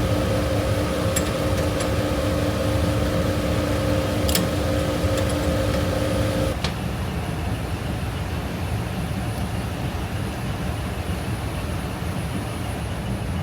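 Refrigerant recovery machine running as it pulls R22 out of an old unit: a steady low hum with a two-note whine that cuts off suddenly about six and a half seconds in. A few light clicks come in the first five seconds.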